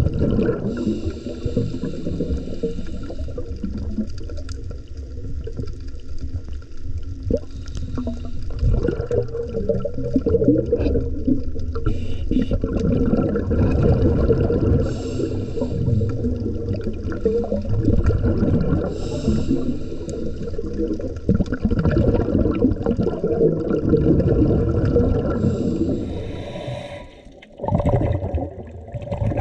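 Underwater recording of a diver's breathing, with exhaled air bubbling and rushing past the microphone. It drops away briefly near the end.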